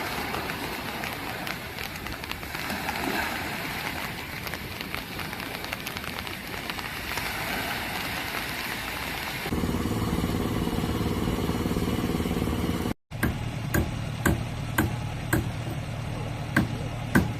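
Outdoor noise with distant voices, then an engine idling steadily from about halfway in, with sharp knocks about twice a second near the end.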